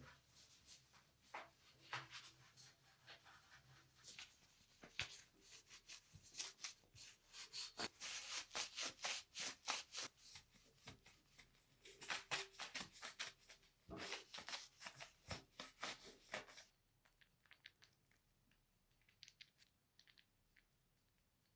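Rapid scratchy rubbing strokes, many a second in bursts, like hand scrubbing or polishing. They stop about three-quarters of the way through, leaving near silence with a few faint ticks.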